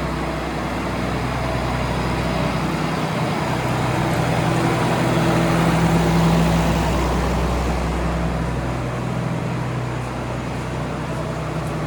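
Farm tractor engine running steadily, swelling a little about midway and then settling back.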